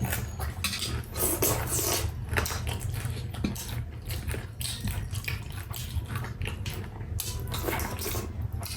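Eating sounds: food being chewed and crunched, with a utensil clicking against dishes in irregular short taps, over a steady low hum.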